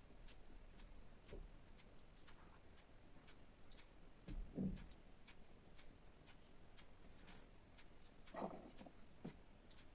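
A quiet room with faint, even ticking, about two ticks a second. A few soft knocks of objects being handled are heard, the loudest a little before the middle and another near the end.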